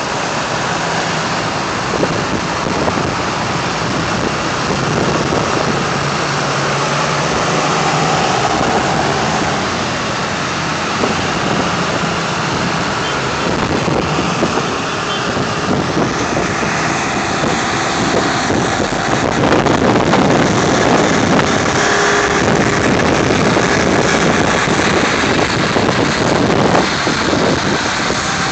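Engines of several vintage tractors running as they drive by in procession, getting somewhat louder about halfway through.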